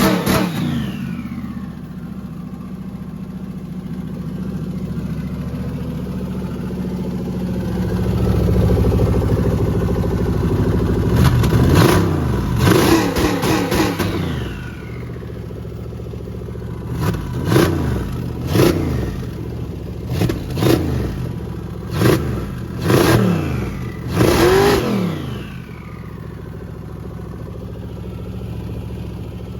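Turbocharged LS V8 running and being revved on a first start: a longer rev about a third of the way in, then a series of about six quick throttle blips, each rising and falling back to a rough idle.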